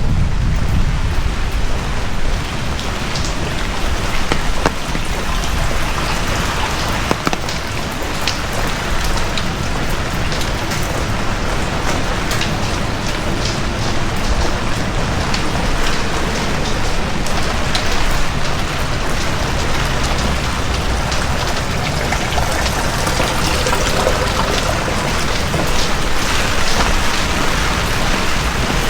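Heavy rain pattering steadily on surfaces close by, with many sharp drop ticks over a dense hiss and a low rumble beneath.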